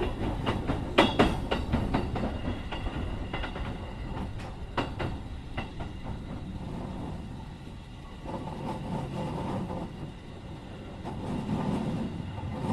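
Keikyu 1500 series electric train running, heard from inside the car: wheels give a quick run of sharp clicks over the rails in the first half, then settle into a steadier low rumble.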